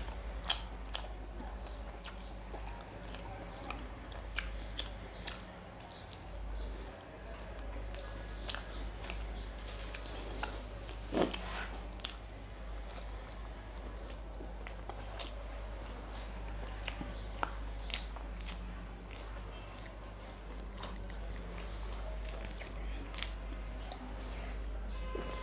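A man chewing mouthfuls of rice and curry eaten by hand, with wet mouth sounds and many scattered small clicks, over a steady low hum.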